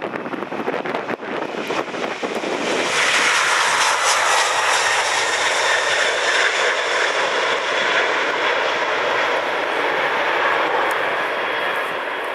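McDonnell Douglas MD-11's three turbofan engines at takeoff power: a loud jet roar with a high whine, swelling in about three seconds in and slowly easing off near the end. Wind buffets the microphone at the start.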